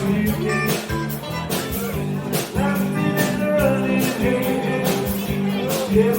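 A live rock band playing a song with a singer over guitar and a steady drum beat of about two strikes a second.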